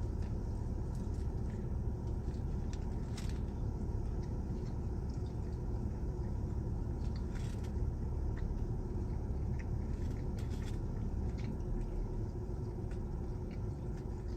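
Steady low rumble inside a car, with a few faint scattered clicks and crackles over it.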